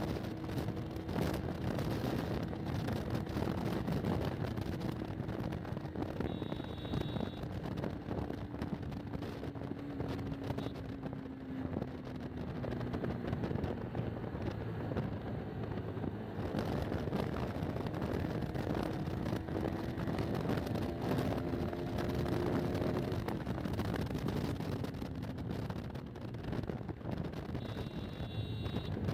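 Motorcycle engine running on the move, with wind and road noise; its note slowly drops over the first dozen seconds, then climbs again and falls back. Two short high beeps, one about a quarter of the way in and one near the end.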